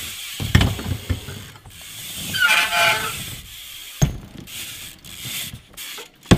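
BMX bike riding a mini ramp: tyres rolling and rubbing over the ramp surface, with low thuds about half a second in and again about four seconds in, and a sharp loud knock near the end.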